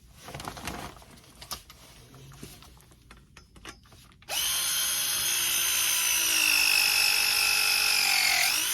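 A few light clicks and knocks, then about four seconds in a Milwaukee M12 short-throw ProPress tool's motor starts and runs for about four seconds, crimping a copper press fitting. Its whine drops slowly in pitch under the load and sweeps up quickly as the press cycle ends.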